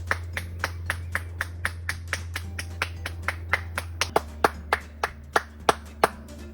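Sharp rhythmic hand claps, about four a second and slowing slightly after about four seconds, made to scare a group of deer into scattering, over a low steady hum.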